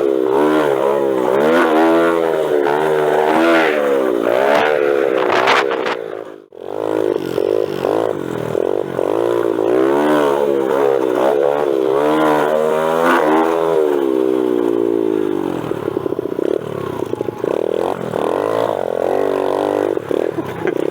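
Single-cylinder four-stroke pit bike engine revving hard, its pitch climbing and dropping over and over with throttle and gear changes, as the bike is ridden fast around a dirt track. The sound cuts out briefly about six seconds in. In the last several seconds the engine runs choppier, going on and off the throttle.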